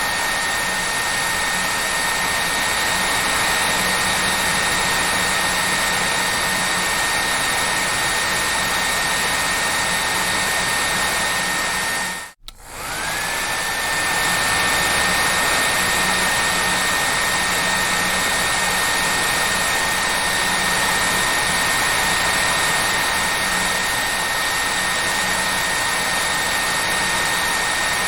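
Hair dryer running steadily: an even rushing blow with a thin high motor whine. About halfway it cuts out for a moment and comes back, the whine rising back up to pitch.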